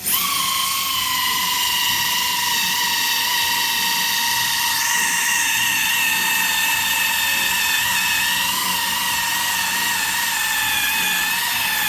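Small 3M buffer with a wool pad starting up and then running at its top setting against a plastic headlight lens: a steady electric whine whose pitch wavers slightly as it is worked across the lens.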